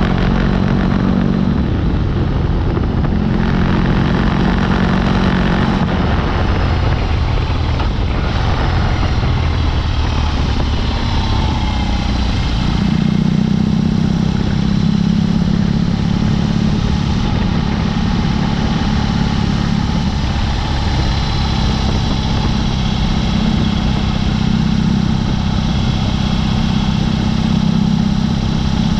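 BMW R18's big boxer-twin engine running through a Dr. Jekill & Mr. Hyde aftermarket exhaust while riding, its note changing several times with throttle and gears, with steady wind and road noise underneath.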